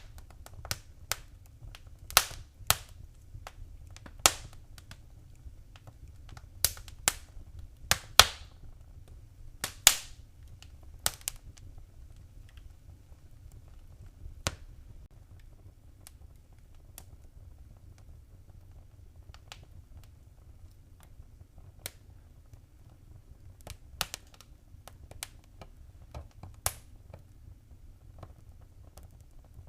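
Wood fire crackling in a fireplace: irregular sharp pops and snaps over a steady low rumble of the flames, with the loudest pops in the first half and fewer, fainter ones later.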